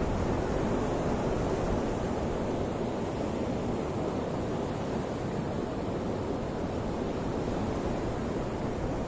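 Ocean waves breaking and washing on the shore in a steady, continuous rush of surf.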